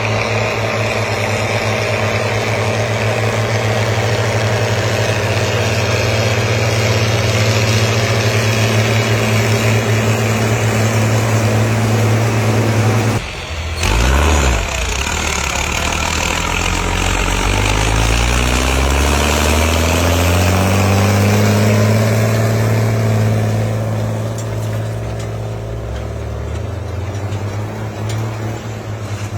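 Tractor engines running steadily under load. About halfway through the sound cuts abruptly, then an engine's pitch climbs over several seconds as it revs up before holding steady.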